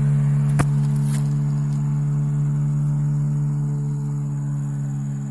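Steady engine drone holding one low pitch, with a single sharp click about half a second in.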